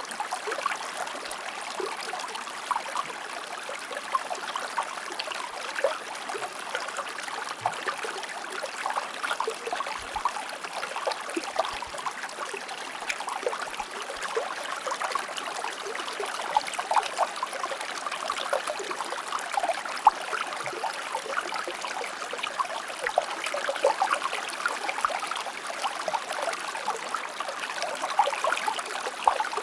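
A small river or stream flowing steadily over rocks, a continuous hiss of water full of little splashes and burbles.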